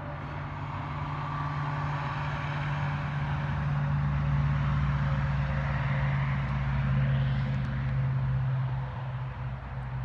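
Highway traffic: a vehicle's engine hum and tyre noise swell to a peak about halfway through, then fade.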